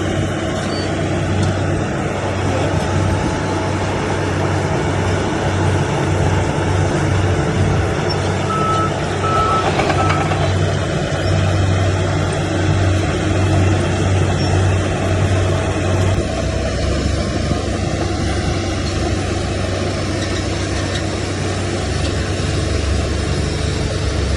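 Heavy earthmoving machine's diesel engine running steadily, its note dropping lower about two-thirds of the way through. Three short beeps of a reversing alarm sound about nine seconds in.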